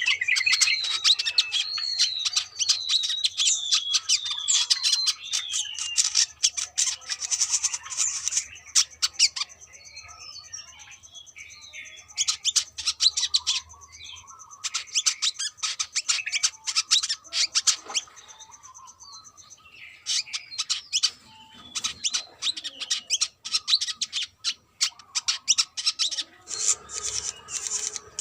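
Brown-throated sunbird singing: fast, high, squeaky chirps and twitters, opening with a wavering warble that rises and falls, with two short quieter pauses.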